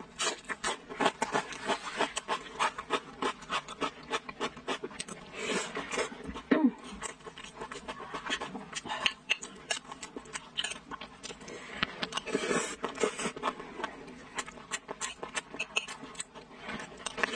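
Close-miked chewing of fat-intestine rice with glass noodles: a dense run of wet mouth clicks and smacks, with a metal spoon scraping the ceramic bowl now and then.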